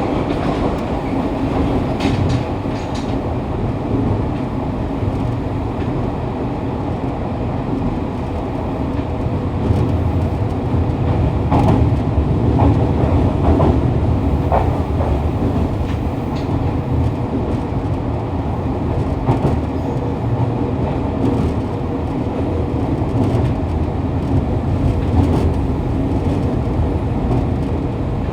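Fukuoka City Subway 2000 series train running at speed, heard from the car floor: a steady rumble of wheels on rail and running gear with a faint steady whine. A few short clicks sound over it, and the rumble swells for a few seconds about halfway through.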